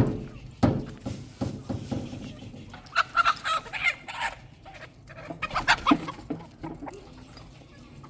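A sharp knock, followed by a few more thumps in the first two seconds. Then chickens squawk and cluck in two bursts, about three and about five and a half seconds in.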